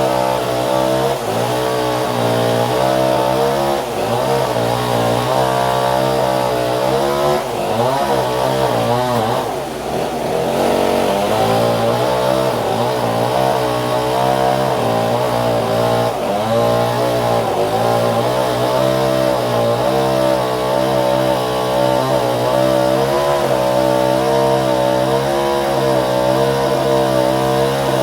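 Engine-driven saw running continuously, its pitch wavering up and down as the load changes, with a brief dip and rise in pitch about ten seconds in.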